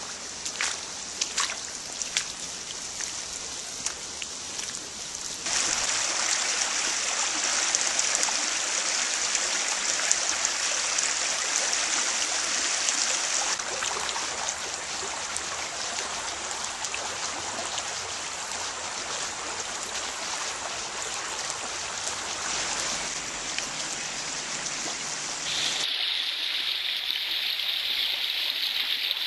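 Small river running, a steady rush and trickle of flowing water, with a few sharp ticks in the first seconds. It jumps louder about five seconds in and turns hissier near the end.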